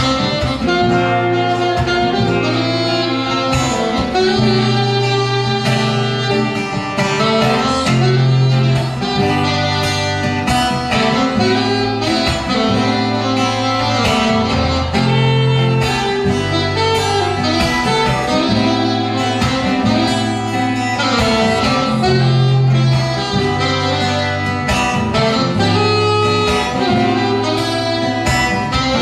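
Saxophone playing a sustained melody over acoustic guitar accompaniment with a steady bass line: an instrumental passage of a ballad.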